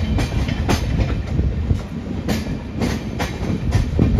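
Train running on the rails: a steady low rumble with irregular sharp clacks of wheels passing over rail joints.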